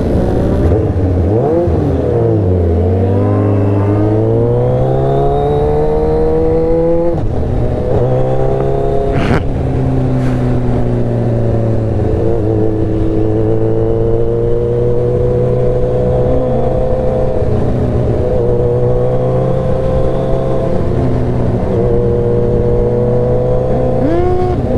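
Motorcycle engine under way. The revs drop about a second in, then climb steadily for several seconds until a gear change about seven seconds in, and the bike then cruises at fairly even revs with small rises and dips. A single sharp knock is heard about nine seconds in.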